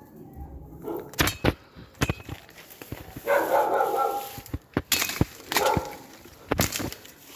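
A dog barking, with a run of sharp cracks and snaps around it.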